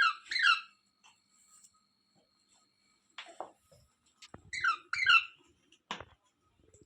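Rose-ringed parakeet giving short, high squawks in pairs: two at the start and two more about two-thirds of the way through. A few sharp taps or clicks fall in between.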